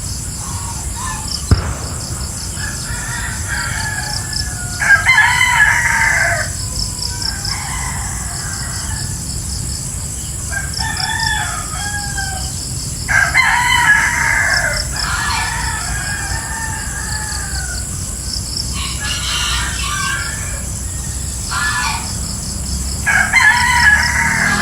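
Roosters crowing several times, each crow lasting a second or two, over a steady, pulsing chorus of insects. A single sharp click comes about a second and a half in.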